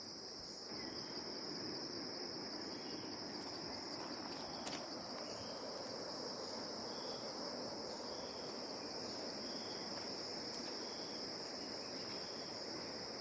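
Steady high-pitched drone of forest insects, with a fainter short chirp repeating about once a second.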